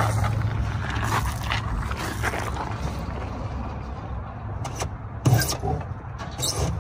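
Heavy electrical cables scraping and rubbing as they are pulled through a truck's body panel, with a couple of sharp knocks near the end. A steady low hum runs underneath and slowly fades.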